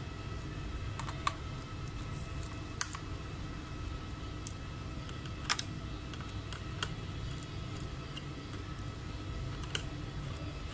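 Scattered light clicks and taps, irregular and about a dozen in all, from small tools or parts being handled at a laptop repair bench, over a steady low hum.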